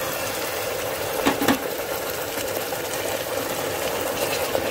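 Onion-garlic paste sizzling in hot mustard oil in a pressure cooker, a steady frying hiss, with two short knocks a little over a second in.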